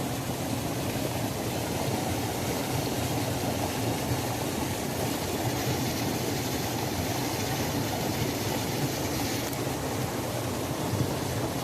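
Waterfall: water falling and rushing in a steady, unbroken roar-like wash, heaviest in the low and middle range.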